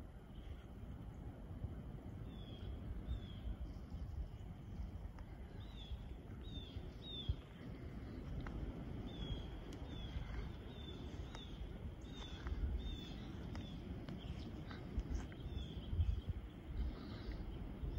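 A bird calling from the woods: a run of short, high chirps that each drop in pitch, coming about two a second in bursts, over a low rumble. A couple of sharp knocks stand out, about seven seconds in and near the end.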